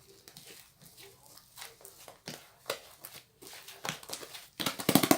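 Cloud slime made from liquid glue, activator and powder being mixed and squeezed by hand, giving sticky clicks and crackles, with a quick run of dense crackling pops near the end.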